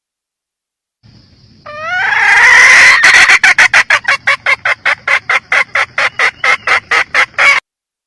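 Red junglefowl hen calling: a rising squawk that swells into a fast run of clucks, about five a second, cut off suddenly.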